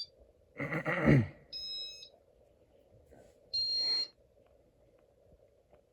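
Two short, high electronic beeps about two seconds apart, after a brief throaty vocal sound near the start, over a faint steady hum.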